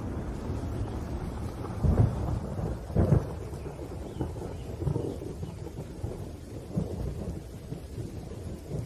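Thunderstorm: steady rain with rolling thunder, two loud claps about two and three seconds in, then a few weaker rumbles.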